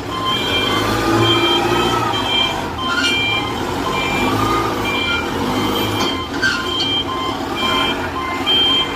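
Forklift reversing alarm sounding a repeating electronic beep about once a second, over a running engine. Short knocks come about three seconds in and again around six seconds.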